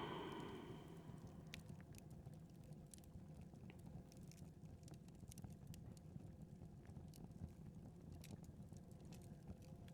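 Wood fire crackling faintly in a fireplace: scattered, irregular sharp pops over a low steady rumble.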